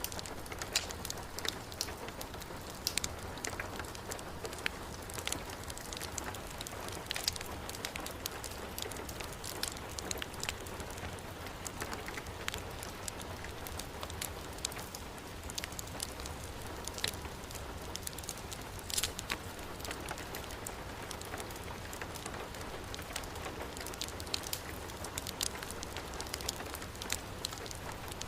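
Heavy rain falling steadily, mixed with a wood fire in a fireplace crackling, with sharp irregular pops scattered throughout.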